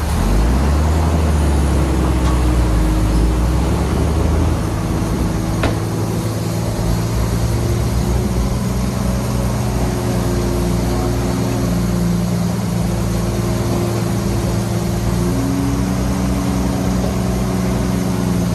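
Heavy diesel engine of earthmoving machinery running steadily under load, with a deep rumble that eases after about four seconds and a single click near the middle.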